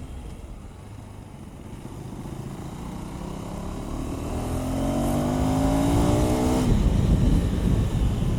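KTM 390 Adventure's single-cylinder engine pulling under throttle in sixth gear, its note climbing steadily in pitch and getting louder, then falling away sharply as the throttle is closed near the end.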